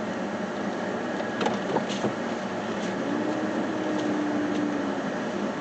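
Steady running noise of a vehicle moving along, heard from inside the cab, with a few faint clicks.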